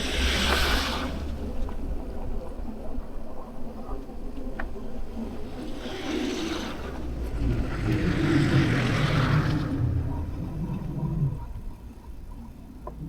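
Wind buffeting the microphone over the low rumble of a bicycle on the move, swelling at the start and again about six and eight seconds in.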